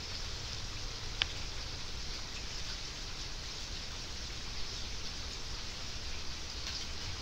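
Steady rain falling, an even hiss with a low rumble beneath it, and one sharp tick about a second in.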